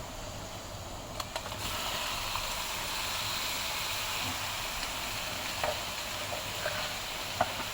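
Red-marinated chicken sizzling as it fries in a hot pan for chicken curry, the sizzle growing stronger about a second and a half in, with a few light knocks.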